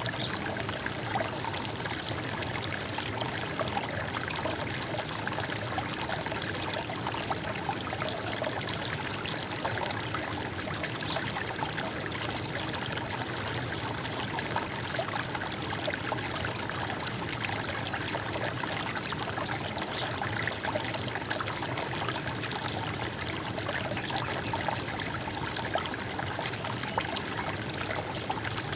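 Running water flowing and gurgling steadily, with no pause or change.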